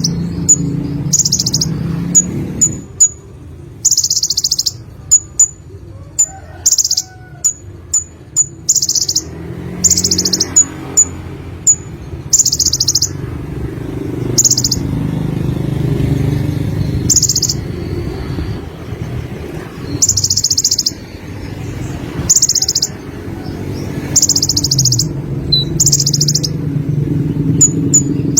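Konin sunbird singing: a series of short, high, fast trills, each about half a second long, with brief sharp high chips between them, over a steady low background hum.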